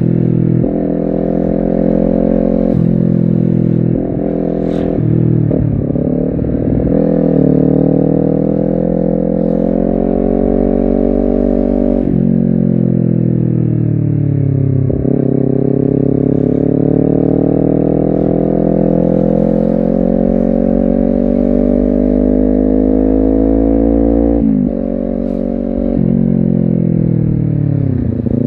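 Honda CBR250RR's parallel-twin engine pulling under way, its pitch climbing steadily and then dropping sharply at gear changes several times, with a choppy stretch of on-off throttle early on.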